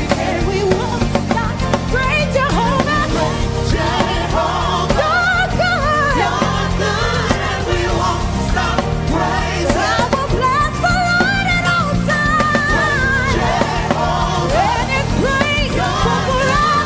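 Live gospel worship music: voices singing a wavering melody over a steady band accompaniment.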